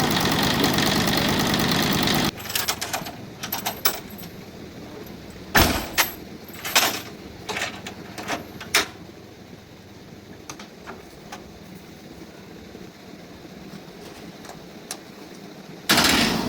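Repaired tractor engine running steadily, cut off abruptly about two seconds in. Scattered light clicks and knocks follow over a quiet background, and a loud noise returns just before the end.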